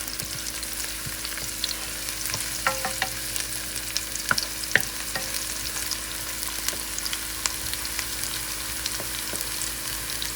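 Chopped onion and scallion frying in hot oil: a steady sizzle full of small crackles, with a few sharper clicks of stirring in the pot, the loudest a little before the middle.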